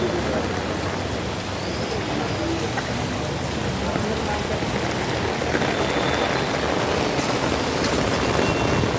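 Steady rain falling, an even hiss of rain hitting surfaces.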